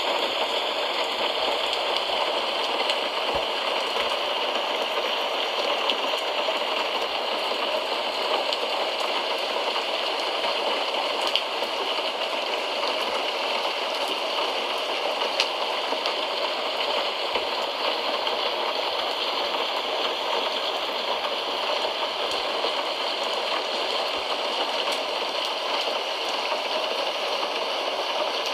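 Steady rain, an even hiss with faint scattered drop ticks, made as a rain sound for sleep.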